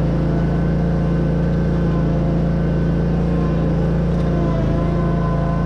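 Bobcat riding mower's engine running steadily at an even speed.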